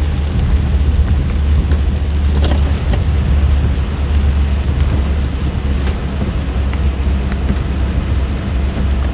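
Car driving through heavy rain: a steady low rumble of road and engine noise with a hiss of rain over it and a few sharp taps.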